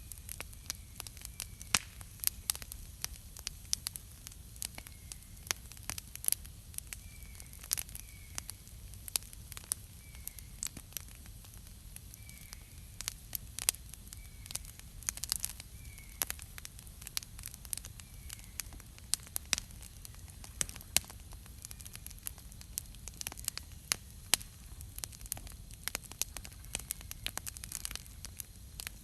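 Wood campfire burning with irregular sharp crackles and pops over a low steady hiss. A faint, short high chirp recurs every second or two in the background.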